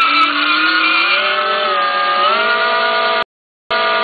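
Electric drive motor and controller of a 72-volt electric trike whining, its several pitches sliding slowly up and down with motor speed. The whine cuts off abruptly a little past three seconds in and comes back briefly near the end.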